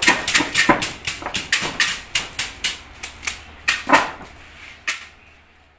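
A fast, uneven run of sharp clicks, about three to four a second, fading out and stopping about five seconds in.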